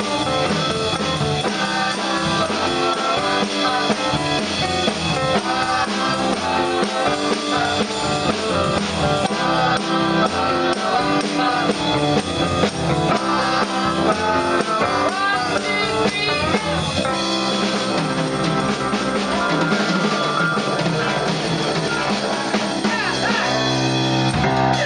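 Rock band playing live, with drum kit, guitar and singing.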